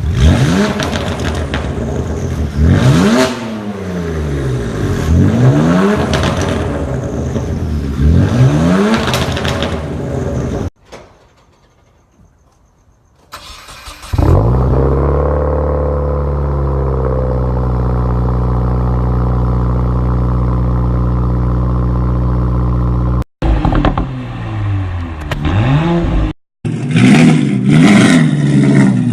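Performance car exhausts revved in a run of short, abruptly cut clips. First come several quick blips that rise and fall in pitch. After a brief near-quiet gap, one engine revs up and holds a steady high pitch for several seconds, then more short bursts of revving follow.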